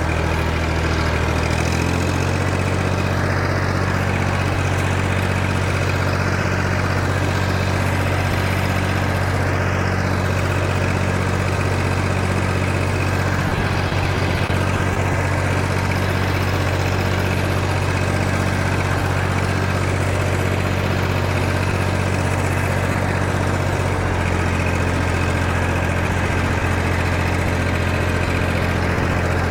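Massey Ferguson MF230 tractor engine running steadily, just brought back into working order after not running.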